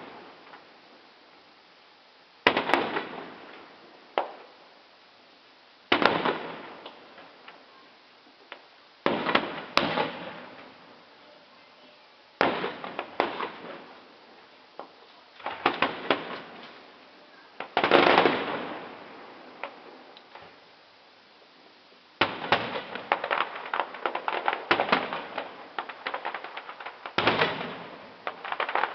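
Fireworks display: a sharp shell burst about every three seconds, each bang trailing off in crackles, then, about two-thirds of the way in, a dense, continuous run of rapid pops and crackles.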